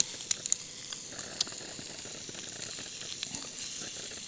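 Eggs frying in a hard-anodized aluminium nonstick camp fry pan on a gas canister stove: a steady sizzle with sharp crackling pops, several in the first second and a half.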